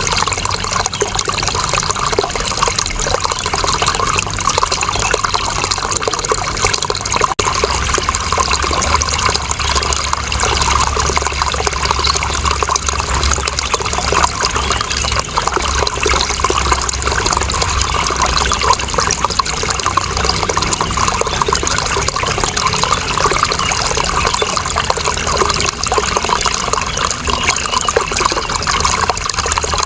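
Water running and splashing in a steady, continuous rush, with a low rumble that grows stronger about seven seconds in.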